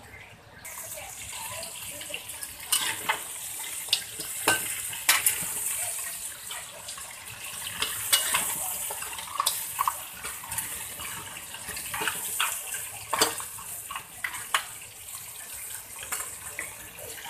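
Crab pieces sizzling in hot oil in a wok, with a loud steady hiss that starts abruptly about a second in. Sharp clicks and knocks of a utensil against the metal pan sound through it.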